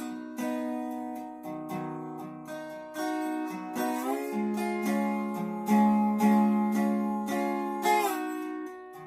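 Acoustic guitar strumming chords and letting each one ring, a new strum every half second to a second. This is a slow instrumental introduction, with no singing yet.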